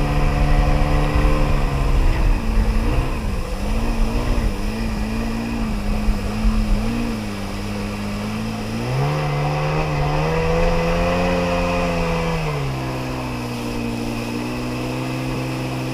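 1994 Sea-Doo XP personal watercraft's 80 hp two-stroke engine under way on the water: it eases off about 2 s in and putters at a low, wavering pitch, then is throttled up about 9 s in, holds, and eases back to a steady lower running note near the end.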